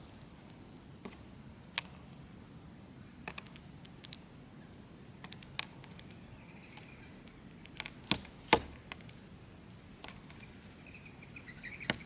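Birds at a backyard seed and peanut feeder: scattered sharp clicks and knocks, the loudest pair about eight seconds in, with faint twittering bird calls twice.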